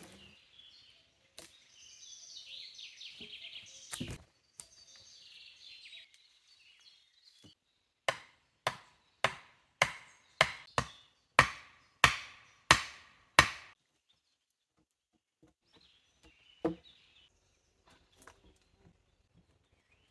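Wood being chopped: a quick run of about ten sharp blows, a little under two a second, with one more blow a few seconds later. Before the chopping comes a softer scraping sound with a single knock.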